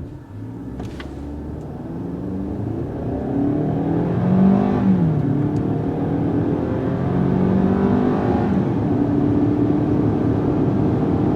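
Turbocharged 2.0-litre four-cylinder crossover engine accelerating hard at full throttle. Its pitch climbs, drops at an automatic upshift about halfway through, climbs again and settles after a second shift near the end.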